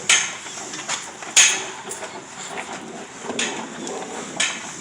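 Car-wash foam brush scrubbing a car's body, with four sharp swishes or knocks about a second or two apart over a steady hiss.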